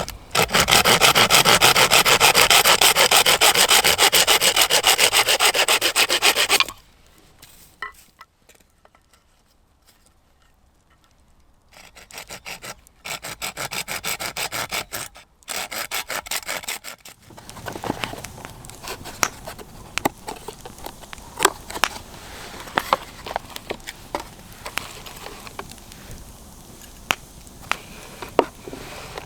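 Saw cutting through wood in fast, rhythmic strokes for the first several seconds, then, after a pause, a quieter stretch of sawing. The last third holds scattered sharp cracks and pops.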